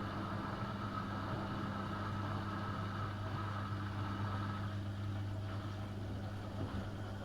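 AEG Öko-Lavamat 72520 front-loading washing machine running with a steady low hum during a hot-wash cycle.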